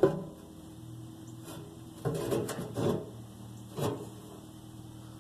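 Handling noises as a steel fuel tank is held up under a car and its bolts are lined up: a sharp knock at the start, then a few short scrapes and clunks. A steady low hum runs underneath.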